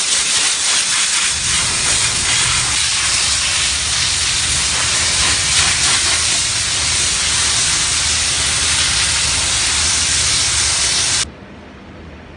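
Steam-cleaning wand spraying pressurised steam in a loud, steady hiss, with a low machine rumble underneath from about a second in; the spray cuts off abruptly near the end.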